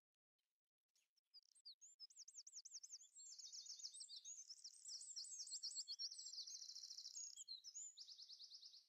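Songbird singing fast, high trills and chirps, faint, starting about a second in and cutting off abruptly at the end.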